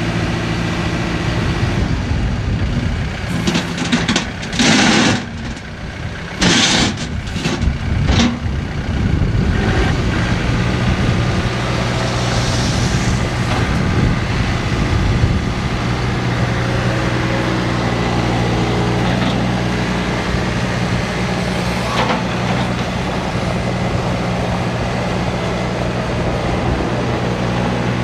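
John Deere 4044M tractor's four-cylinder Yanmar diesel engine running steadily, with several short, loud bursts of hiss in the first eight seconds or so.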